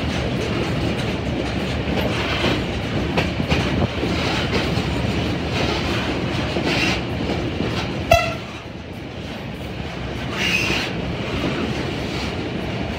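Tourist train running along the line: a steady rumble with the clatter of wheels over the rail joints. About eight seconds in there is one sharp knock with a short ringing tone, and the level then drops a little.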